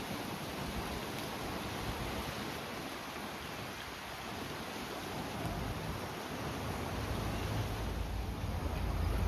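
Wind buffeting the microphone over a steady outdoor hiss. The low rumble drops away in the first half and comes back about halfway through.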